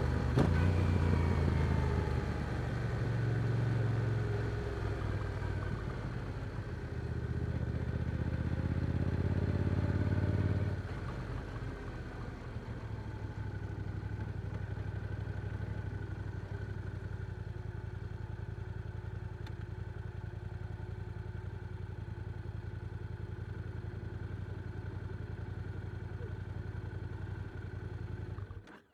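Yamaha R7 parallel-twin engine through an Akrapovic exhaust, running under changing revs at first, then settling to a steady, quieter idle about eleven seconds in. The sound cuts off suddenly near the end.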